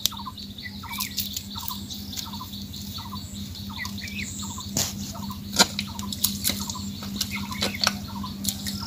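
A bird repeating a short call about twice a second, with now and then a higher note. Sharp clicks and splashes from footsteps in shallow water and mud are heard now and then, the loudest a little past halfway.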